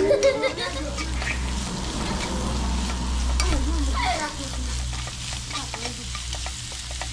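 Beef and cabbage sizzling in a pan while being stir-fried, with the spatula scraping and clicking against the pan. A few short children's calls or laughs are heard in the background.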